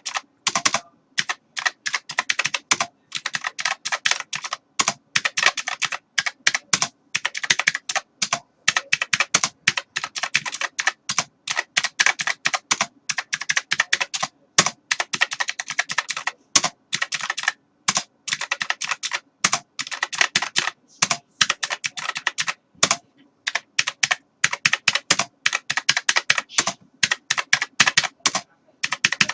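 Computer keyboard being typed on: fast, irregular runs of key clicks with short pauses between them.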